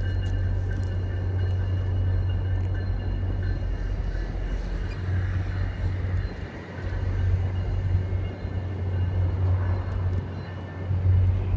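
Distant commuter locomotive bell ringing steadily, heard over a continuous low rumble.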